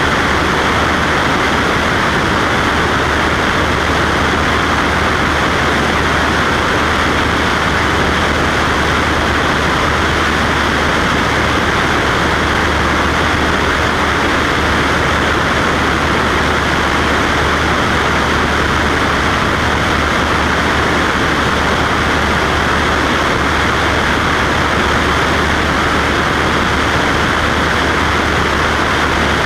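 Cessna Skywagon's single piston engine and propeller running steadily in flight, a constant low hum under an even rushing noise.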